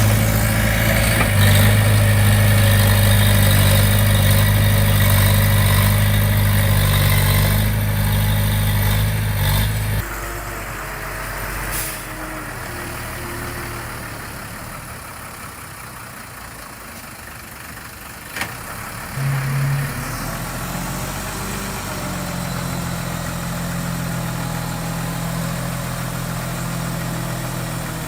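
Diesel engine of heavy construction machinery running: loud and steady at first, then cutting abruptly about ten seconds in to a quieter, steady engine sound, with a couple of sharp clicks and a short louder burst before it settles again.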